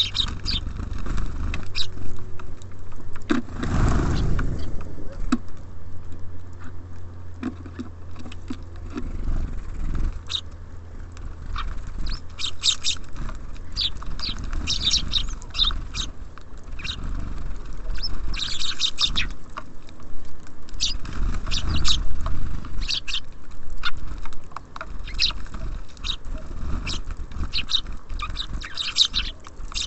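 Small songbirds at a seed feeder: clusters of quick, high chirps and the tapping and scrabbling of beaks and feet on the feeder. A steady low rumble of city traffic runs underneath, swelling briefly about four seconds in.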